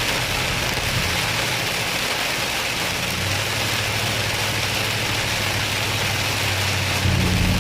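Heavy rain hitting a moving vehicle, with the engine's low hum underneath. The engine note rises about three seconds in and grows louder near the end.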